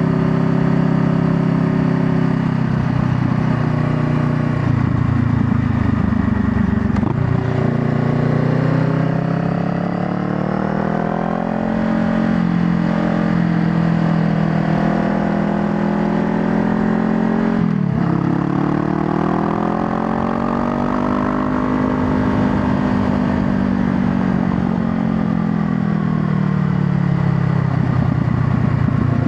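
Honda Rebel 500's parallel-twin engine under way, its pitch climbing and falling with the throttle through the curves. It drops sharply twice, about a quarter and two-thirds of the way through, as the rider shifts or rolls off, then climbs again.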